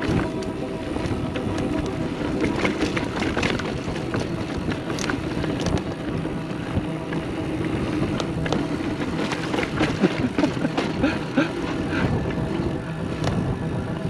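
29er mountain bike descending dirt singletrack: tyres rolling over dirt and rocks, with repeated rattles and clicks from the bike over bumps and wind on the microphone.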